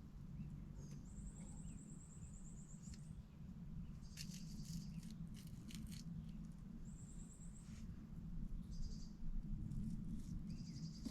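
A small songbird singing very high, rapid trills that end in a quick downward slide, twice, with short high chirps between them, over a steady low rumble.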